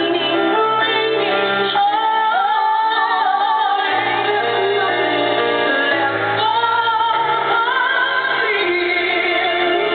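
Live music: a woman singing long, wavering held notes over band accompaniment, with sustained bass notes that shift about four and seven seconds in.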